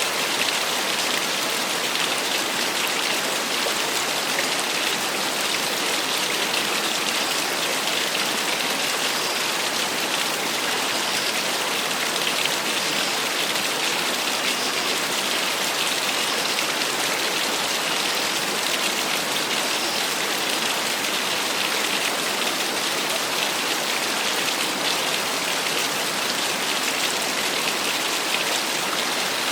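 Small waterfall splashing steadily, an even hiss of falling water that stays the same throughout, with little low rumble.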